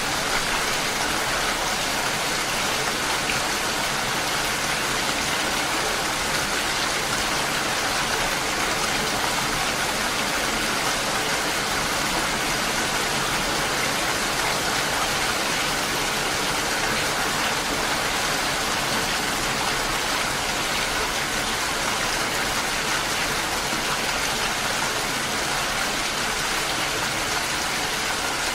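Steady rainfall, a dense, even hiss that holds without a break.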